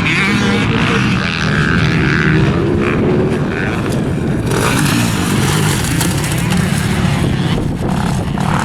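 250cc motocross dirt bikes racing round the track, engines revving up and down as the riders work the throttle.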